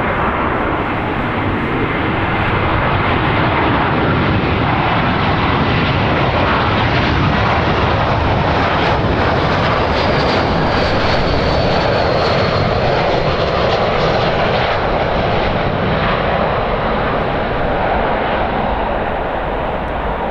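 Jet airliner engines running loud and steady as the aircraft passes, with a faint high whine in the middle and wind rumble on the microphone.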